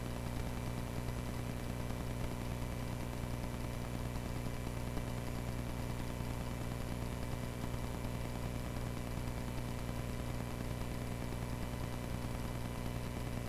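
Cessna 140A's small piston engine running at a steady speed, an even drone with a strong low hum.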